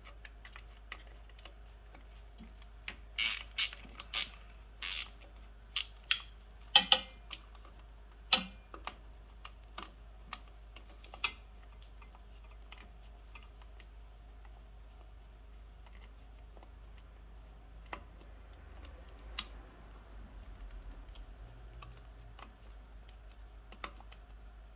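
Irregular clicks and light clatter of hand tools and small hardware while the last fastener of an electric motorcycle's old speed controller is worked loose; the clicks are thickest in the first half, with only a few scattered ones later.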